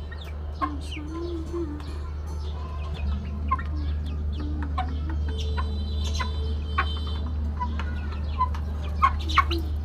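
Chickens clucking in short low calls, mixed with many quick high peeps, over a steady low hum.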